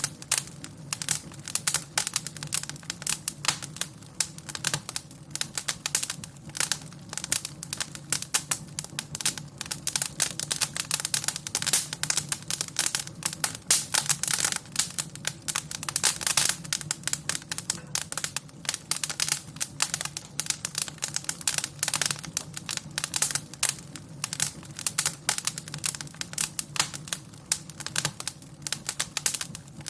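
Wood fire crackling in a fireplace: a dense, irregular stream of sharp snaps and pops over a low, steady undertone.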